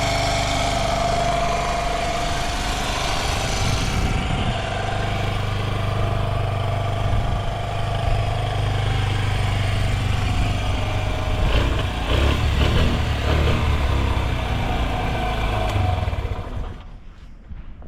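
Honda Ape 50's small single-cylinder four-stroke engine idling steadily, then stopping near the end. It runs without abnormal noises.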